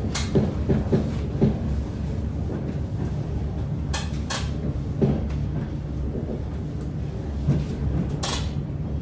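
Inside a moving electric airport-express train carriage: a steady low running rumble with irregular knocks and rattles of the car, and a few short, sharper noises about a second in, twice around four seconds in and near the end.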